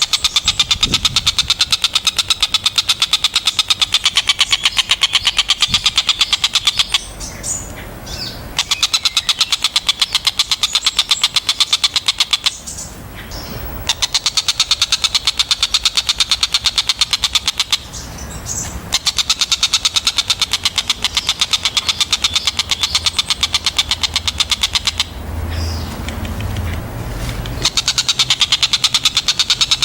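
Tengkek buto kingfisher giving long, rapid chattering trills of sharp, high notes. Each bout runs for several seconds, with short breaks between bouts.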